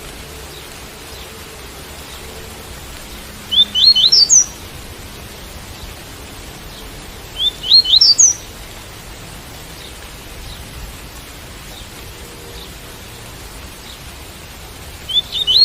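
Double-collared seedeater (coleiro) singing its tui-tui song: three short phrases of quick, rising, whistled notes, over a steady hiss of rain.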